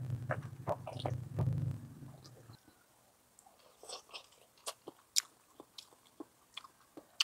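Close-up eating sounds: chewing with short, sharp wet clicks and smacks from the mouth, scattered irregularly through the second half. For the first two and a half seconds a low steady hum runs under them, then stops.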